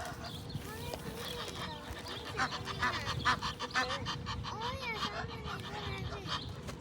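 A flock of wild birds calling, many short calls overlapping and busiest around the middle.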